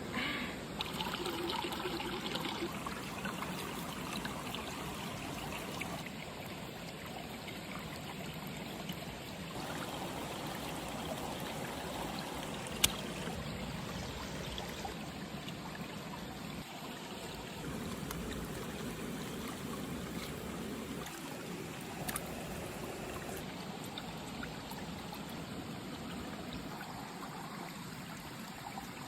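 Running water trickling steadily, like a small stream, with a single sharp click about thirteen seconds in.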